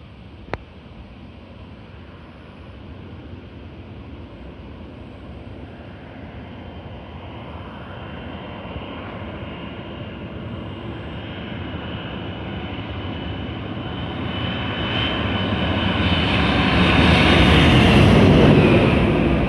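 Boeing 777 airliner's twin jet engines on landing approach, growing steadily louder as it comes in low and passes overhead, loudest near the end, with a steady high fan whine. A single sharp click about half a second in.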